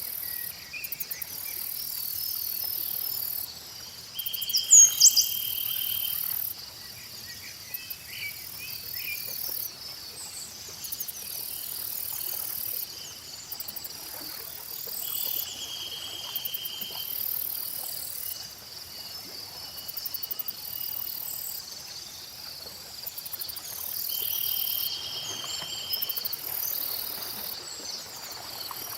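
Night-time insect chorus: crickets chirp steadily, and a very high buzzing switches on and off every few seconds. A lower trill comes three times, each lasting a second or two. A bird gives a few sharp chirps about five seconds in, the loudest sounds here.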